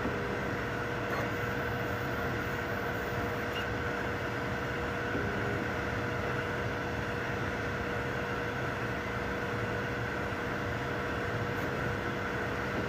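3D printers running: a steady mechanical hum from fans and stepper motors, with a constant whine on top.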